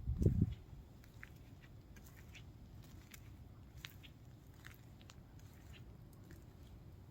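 Footsteps crunching lightly on a sandy dune path, scattered faint ticks over a low outdoor hush, with a brief low buffet of wind on the microphone at the very start.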